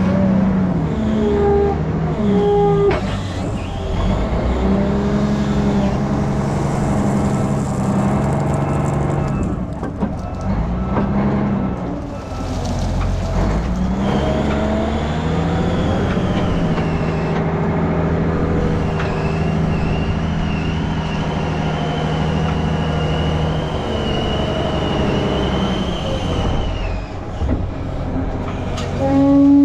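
Heavy diesel engine running under load, its pitch dropping and climbing again several times, with a thin high whine through the middle stretch.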